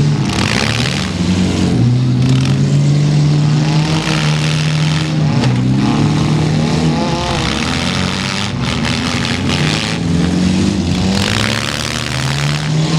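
Demolition derby cars' engines running and revving, several at once, their pitch rising and falling.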